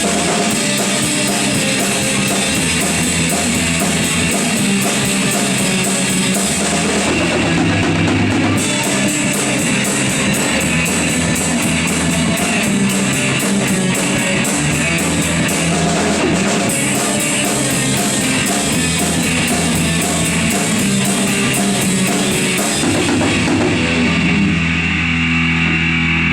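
Instrumental rock music: drum kit and distorted electric guitar playing a steady beat.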